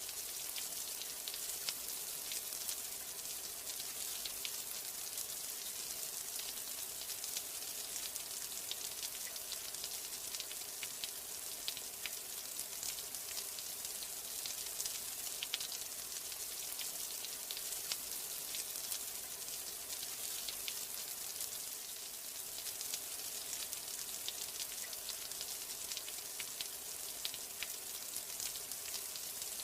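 Steady rain: a dense, even hiss of falling drops with many small, crisp drop ticks scattered through it.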